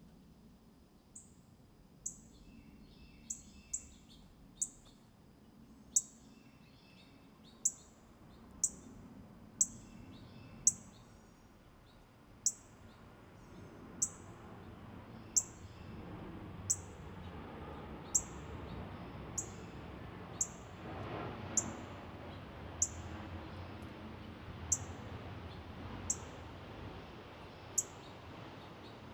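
Small songbird giving a short, sharp, high chip note over and over, about once a second, with fainter, softer twittering in the first half.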